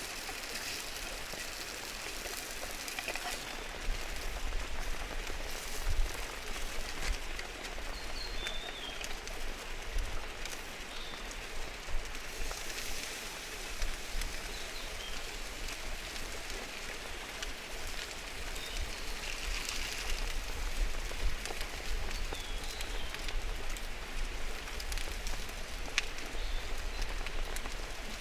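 Steady rain falling, with scattered louder drops striking a surface now and then.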